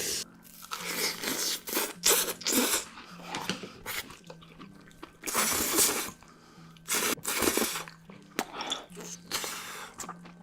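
Close-miked mukbang eating sounds: crunchy, wet bites and chewing in irregular bursts about half a second to a second long.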